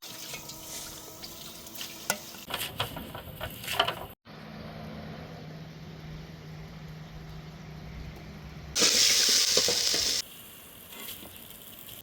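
Cooking sounds in several short cuts: utensils clicking and clattering against a pot while stirring, then steady frying sizzle. Near the end a loud hiss lasts about a second and a half and stops abruptly.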